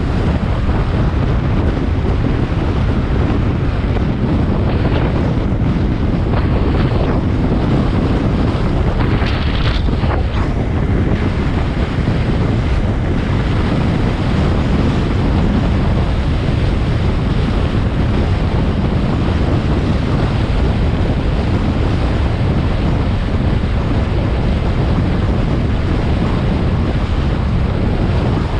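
Heavy wind buffeting the camera's microphone on a moving motorcycle, a steady loud rush that drowns out the engine and traffic.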